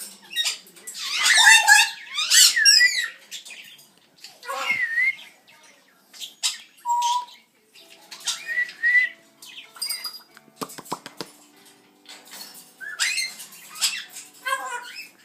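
Amazon parrot squawking and calling in loud bursts, with wavering whistled notes and chirps. The loudest calls come in the first three seconds, and a quick run of clicks comes about eleven seconds in.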